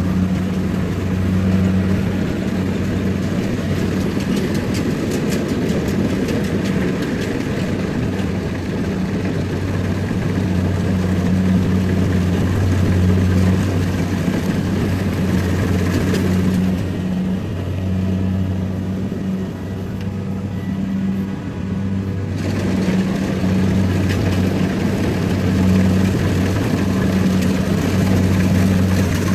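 Rice combine harvester's engine running steadily under a steady low hum, with machinery clatter over it. The higher clatter fades for a few seconds past the middle, then comes back.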